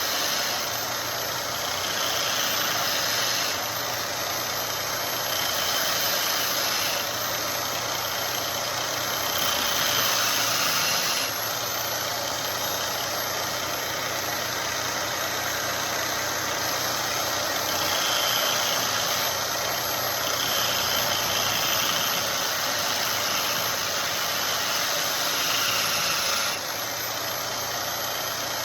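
Belt grinder running steadily with a very fine grit abrasive belt, its motor humming under a constant high whine. Every few seconds a knife blade is pressed to the belt for a pass of a second or two, adding a brighter grinding hiss: the finishing stage of the blade.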